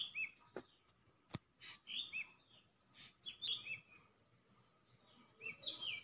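A small bird chirping faintly: a short two-note call, a quick high note followed by a small arched one, repeated four times at intervals of a second and a half to two seconds. A single sharp click comes about a second and a half in.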